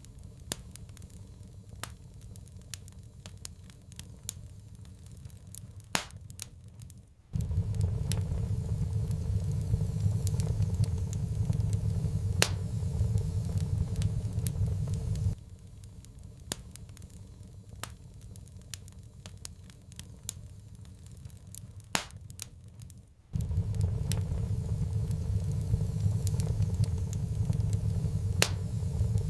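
Wood fire crackling, with irregular sharp pops. Under it a low rumble cuts in suddenly about seven seconds in, drops out about fifteen seconds in, and returns about twenty-three seconds in.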